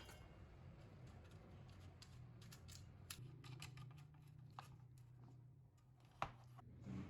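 Faint scattered small clicks and light scraping, with one sharper click about six seconds in, over a steady low hum.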